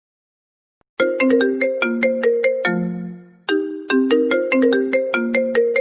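An Apple iPhone ringtone played back as an MP3: a short melody of quick, bright notes that ends on a lower held note. It starts about a second in and begins again about two and a half seconds later.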